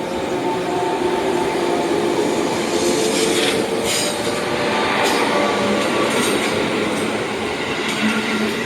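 JR Kyushu 415 series electric train running on the rails: steady wheel-on-rail noise with a thin squealing tone, and a few clacks over the rail joints partway through.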